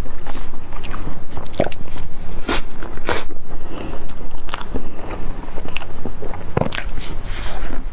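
Close-miked chewing of a soft cream-filled pastry roll: irregular wet mouth clicks and lip smacks.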